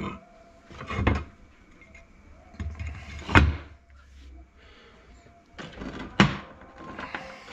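Metal gearbox parts being handled on a workbench: about four knocks and clunks, with some scraping between them.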